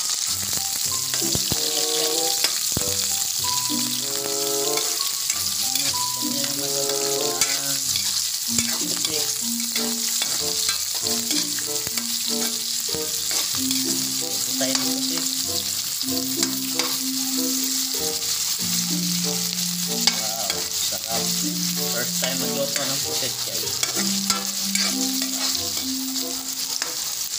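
Sliced onion and garlic sautéing in hot oil in a metal wok, sizzling steadily, with a metal spatula stirring and scraping against the pan now and then.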